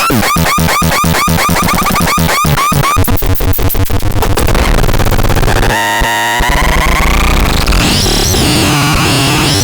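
Harsh electronic noise sounds. Rapid repeated chirps speed up into a dense buzzing wash, then give way to warbling tones that sweep up and down.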